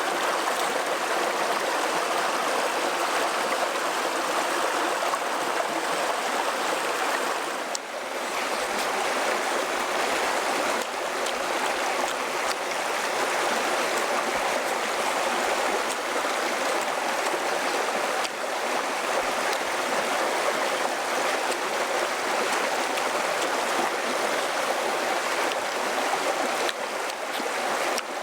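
Steady rushing of running water, like a stream, with a brief dip about eight seconds in.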